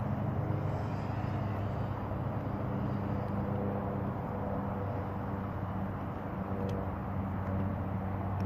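A steady engine running, a low hum that holds one pitch throughout over outdoor background noise.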